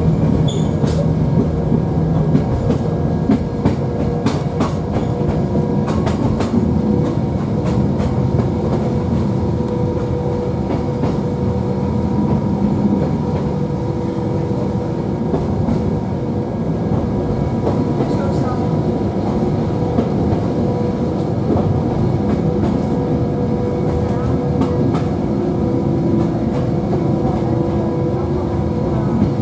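Hakone Tozan Railway electric train running along the track, heard from inside the car: a steady rumble and hum, with occasional sharp clicks from the wheels on the rails.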